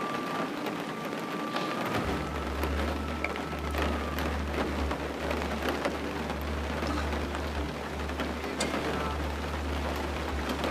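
Steady rain falling, an even hiss with scattered faint patters; a low steady rumble comes in about two seconds in.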